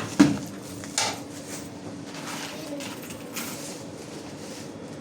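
Small metal objects being set down and handled on a work surface: two sharp clacks about a quarter-second and a second in, then a few lighter taps.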